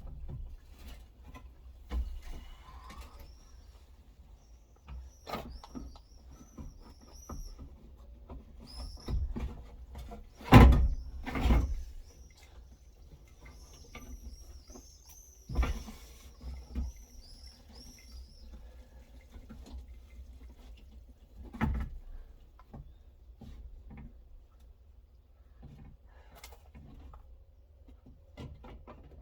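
Hand tools and metal parts inside a car door: scattered clicks, taps and knocks as screws and bolts on the window mechanism are undone, with the loudest knocks about 11 and 16 seconds in. A bird chirps repeatedly in the background for a stretch in the middle.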